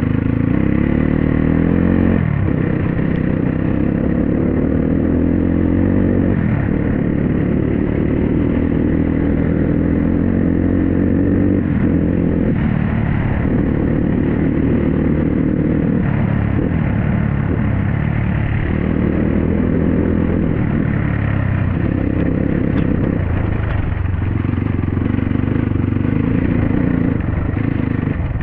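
Dirt bike engine running under way, its revs rising and falling with the throttle, with rattling and scraping from a rough trail.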